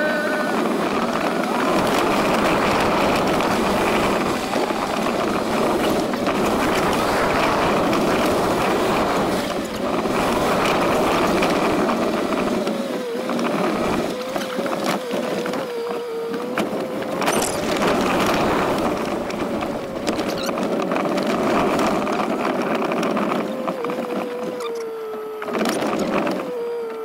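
Dirt bike engine running at a fairly steady pitch under a loud rush of wind noise on the microphone.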